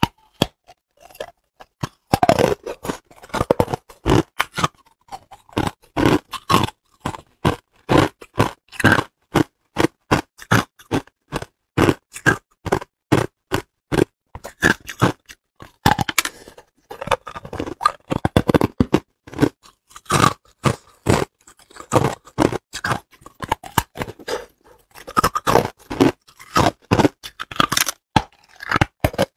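Hard clear ice being bitten and chewed close to the microphone: a continuous run of sharp, irregular crunches and cracks, several a second, with brief pauses between bites.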